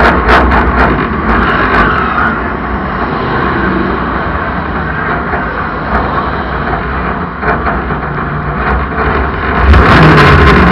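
Race car engine running under way, with a rapid train of sharp pops in the first couple of seconds, then a steadier run, and a sudden surge in loudness near the end as it accelerates hard.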